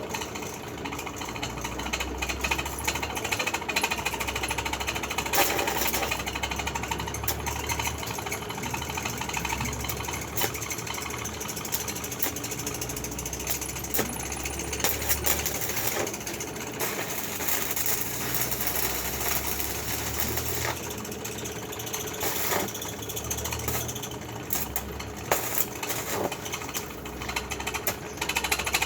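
Stick arc welding: the electrode's arc crackling and spitting steadily, with a low hum that comes and goes underneath.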